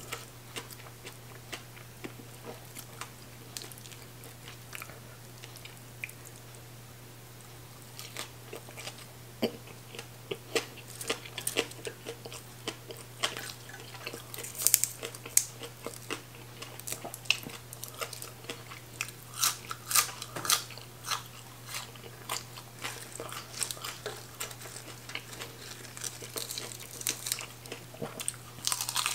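Close-miked chewing and crunching of crisp raw vegetables (green onion stalks and fresh leafy greens), heard as many short crisp crunches and wet mouth clicks. They are sparse for the first several seconds and then come thick and fast. A low steady hum runs underneath.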